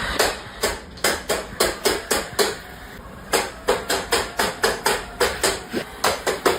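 A rapid series of sharp knocks, about four or five a second, with a short break about two and a half seconds in.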